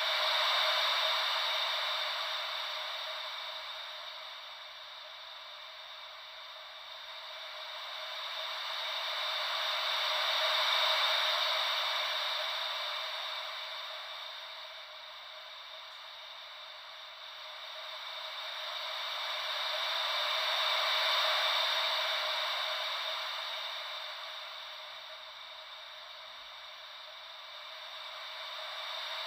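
Gentle ocean-wave white noise: a steady hiss that swells and fades about every ten seconds, like waves washing in and drawing back.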